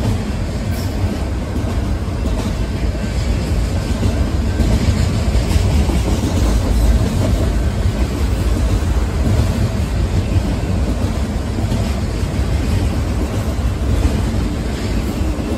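Freight train of autorack cars rolling past close by: a steady, loud rumble of steel wheels on rail and the cars rattling.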